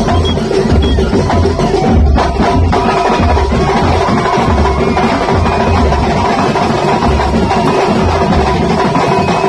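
Kuntulan drum ensemble playing live, with frame drums beating a dense rhythm over a deep bass drum pulse about twice a second and a few steady held tones underneath.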